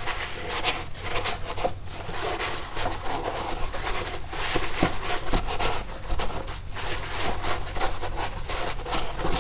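Irregular rubbing and scraping strokes from the air filter housing being wiped and scrubbed clean by hand.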